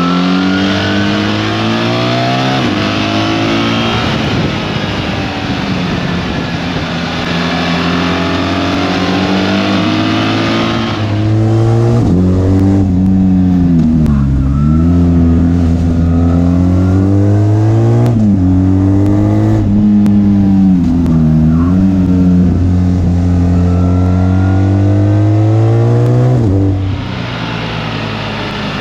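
BMW R 1300 GS boxer-twin engine ridden on the road, its note repeatedly rising and dipping as it accelerates and eases off. Heavy wind rush covers it for the first third, then falls away about eleven seconds in, leaving the engine note up front, before the rush returns near the end.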